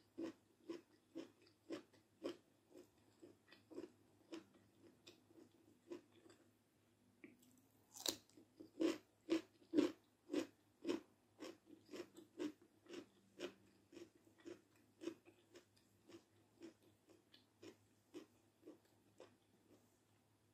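Close-miked chewing of a mouthful of food, with regular wet chews about two a second, louder for a few seconds near the middle.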